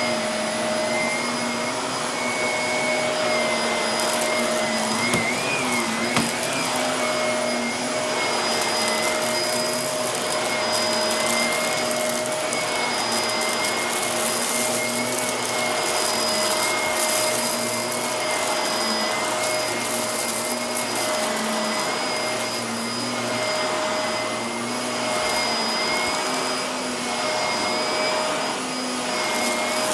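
Upright vacuum cleaner running steadily over carpet with a wavering high whine, while fine grit and debris crackle as they are sucked up, the crunching heaviest in the middle stretch.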